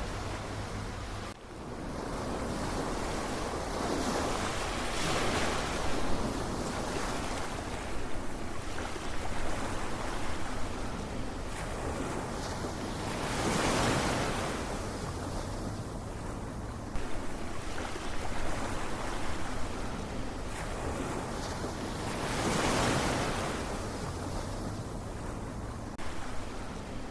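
Ocean waves surging and washing in, in slow swells about every nine seconds over a continuous rush of surf.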